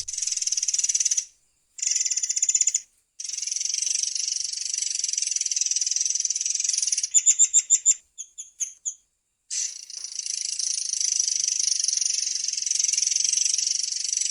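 Murai air songbird singing long, rapid, high trills in several phrases separated by short pauses. The longest roll runs for several seconds. Around the middle comes a run of separate sharp, loud notes.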